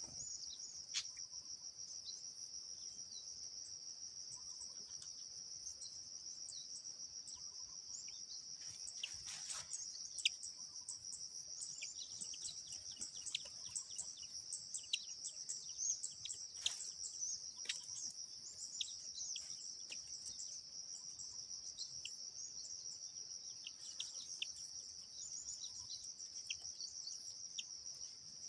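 Continuous high-pitched insect trilling, with many short, sharp bird chirps scattered over it, coming more often after the first ten seconds or so.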